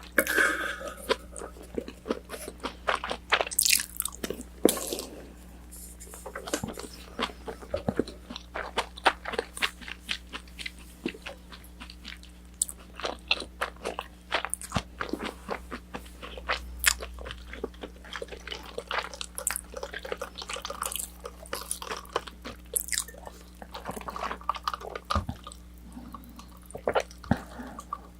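Close-miked crunching and chewing of battered fried orange chicken: a dense run of crisp crunches and wet mouth clicks, over a faint steady low hum.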